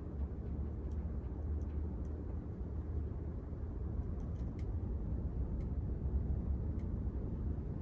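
Casablanca Victorian ceiling fan running on speed 6, its moving air a steady low rumble, with a few faint ticks.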